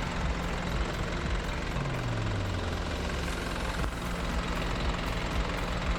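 Diesel engine of a 2020 GMC box truck (Isuzu NPR platform) idling steadily, with a brief falling hum about two seconds in.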